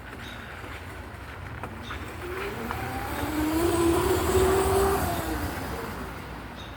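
A vehicle passing by: its sound swells to a peak about two thirds of the way through and then fades, with a pitched hum that rises slightly and drops as it goes past.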